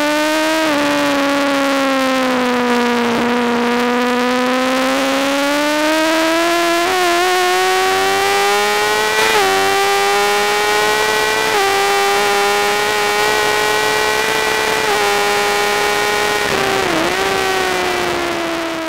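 2007 Yamaha R1's inline-four engine at racing speed, heard onboard, its note climbing slowly with a few brief dips in pitch along the way. It starts to fade near the end.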